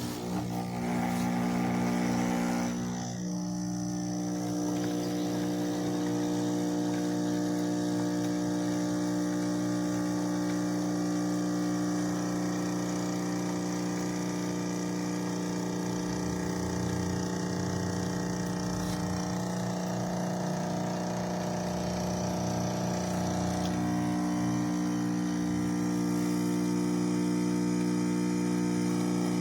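De'Longhi Stilosa espresso machine's vibratory pump running with a loud, steady buzz that comes on suddenly, its tone shifting slightly near the end.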